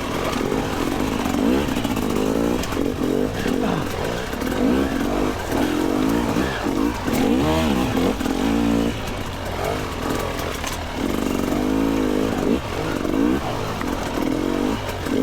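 Two-stroke dirt bike engine revving up and falling back again and again in short bursts of throttle, picking along at low speed.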